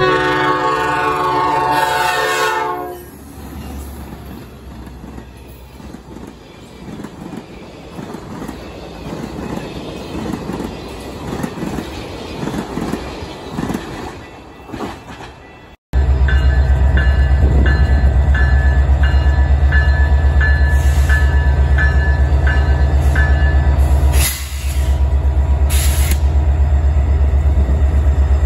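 A train horn sounds loudly for about three seconds, then an approaching commuter train rumbles more quietly. After a cut about halfway, a loud, steady low drone of Canadian Pacific diesel locomotive 2312 and its train passing close by takes over, with a ringing chime about twice a second for several seconds.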